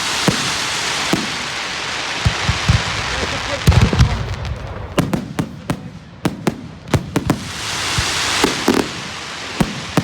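Fireworks going off: a rapid string of sharp bangs and pops, with two long spells of crackling hiss, one at the start and one about eight seconds in.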